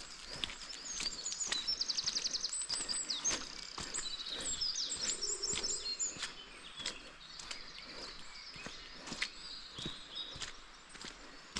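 Woodland birds singing, with a fast, even trill about a second and a half in and many short chirps. Under them runs a steady series of soft crunching steps on the forest floor.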